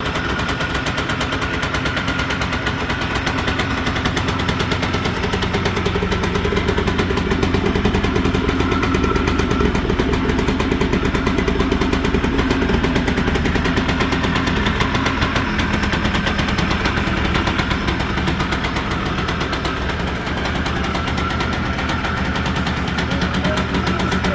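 1992 Yamaha Blaster's 195 cc two-stroke single-cylinder engine running steadily with a rapid, rattling knock, the sign of a bad connecting-rod bearing.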